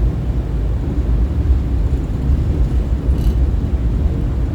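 Steady low rumble aboard the Staten Island Ferry under way, with a faint tick about three seconds in.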